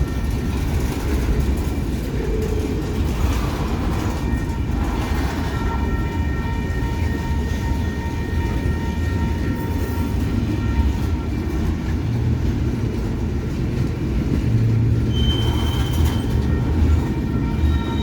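Freight train rolling past close by: a steady, loud rumble of wheels on rail, with thin, steady squealing tones from the wheels coming and going over it.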